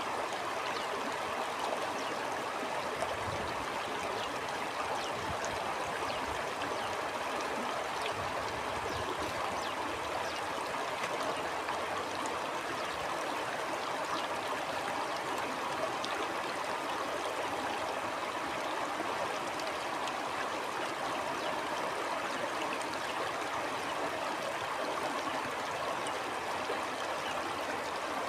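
Stream water flowing steadily, a continuous even rush of running water.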